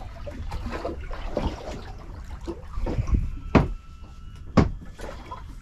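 Water sloshing and dribbling, with scattered small clicks and two sharp knocks about a second apart past the middle.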